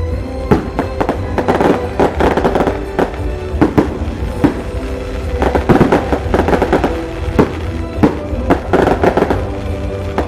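Firecrackers going off in irregular clusters of sharp bangs and pops, the loudest reaching well above the rest. Music plays steadily underneath.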